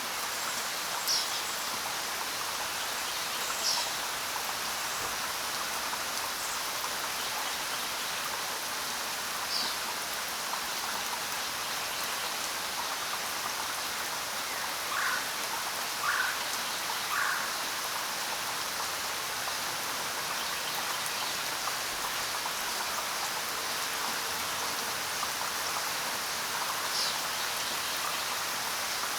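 Steady rain, with a few short bird chirps scattered through it; around the middle come three lower chirps about a second apart.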